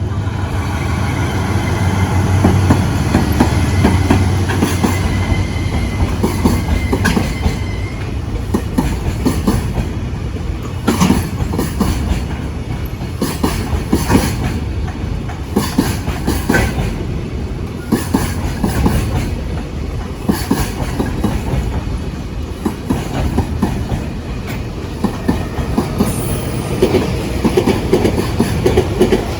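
Container freight train passing close by, its wagons' wheels clattering rhythmically over rail joints. A heavy, steady locomotive hum is loudest in the first several seconds.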